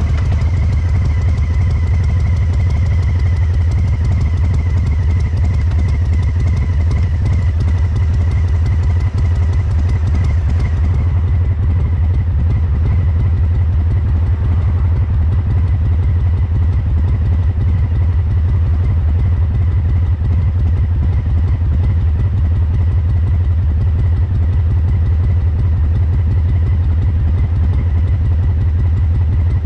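Harley-Davidson Breakout 114's Milwaukee-Eight 114 V-twin running steadily through a COBRA Neighbor Hater slip-on muffler, with no revving. The engine has injection tuning for a loping 'three-beat' rhythm.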